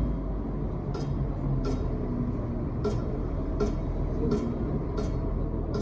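Machinery running with a steady low rumble, with a light click repeating about every 0.7 s.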